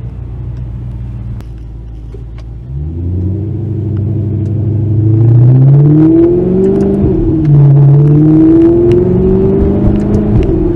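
Sports car engine idling low, then pulling away hard: its note climbs, drops back and climbs again several times as it shifts up through the gears, growing loud.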